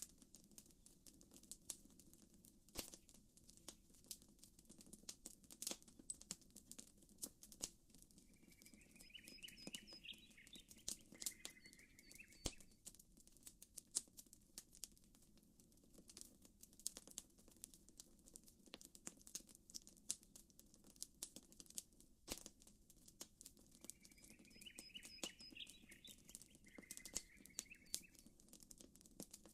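Faint campfire crackling: irregular sharp pops and snaps from burning wood. A bird's chirping call comes in about nine seconds in and again, nearly identical, about twenty-four seconds in.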